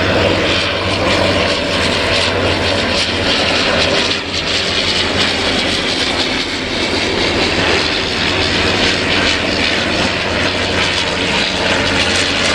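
Piston engine of a First World War-era propeller aircraft flying a display, a steady drone with a slight dip about four seconds in.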